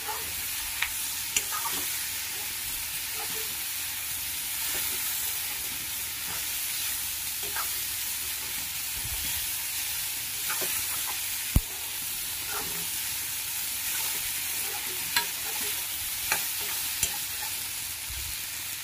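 Goat meat, onions and potato chunks sizzling in hot oil in a metal kadai while a spatula stirs them, the spatula scraping and clicking against the pan now and then, with one sharper knock about halfway through.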